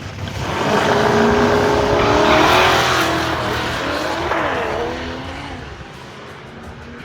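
Two drag-racing cars launching and accelerating hard down the quarter-mile, one of them running a 7-litre turbocharged engine. The engine notes rise as they pull away, then pass and fade into the distance.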